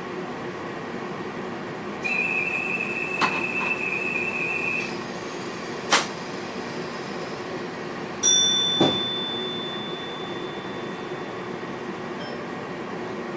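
Inside the driver's cab of a VIRM electric train under way, with a steady running hum. A high electronic beep sounds for about three seconds, there are a few sharp clicks, and then a bell-like cab signal rings once and fades out over a few seconds.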